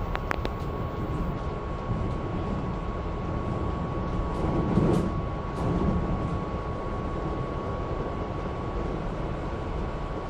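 Commuter train running, heard from inside the car: a steady rumble with a constant thin whine over it. A few sharp clicks come right at the start, and the rumble swells briefly about five seconds in.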